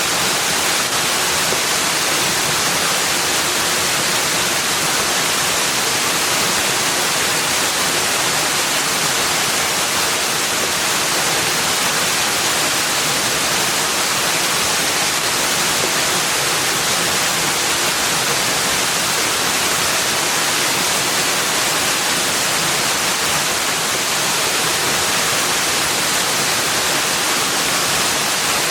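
A steady, unbroken rushing hiss, even from low to very high pitch, with nothing else standing out.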